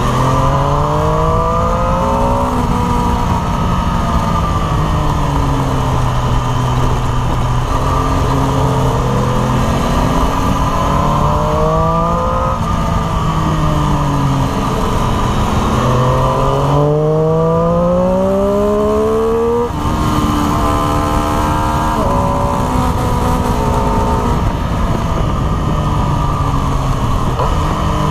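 Triumph Street Triple RS 765 cc inline-three engine heard from the saddle, revving up and easing off again and again in second gear through bends, over wind noise. One long climb in revs cuts off suddenly about twenty seconds in.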